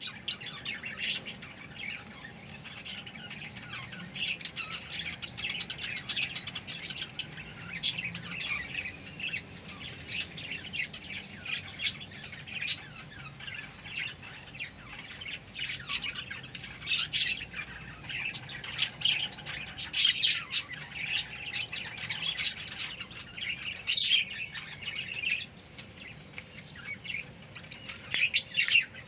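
Budgerigars chattering, many short sharp chirps and squawks overlapping without pause, with louder calls every second or two.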